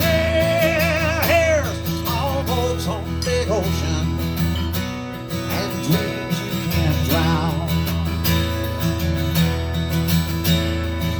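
Live acoustic guitar strumming chords of a country-folk song, with the singer holding a long wavering note at the start and a few short sung phrases after it.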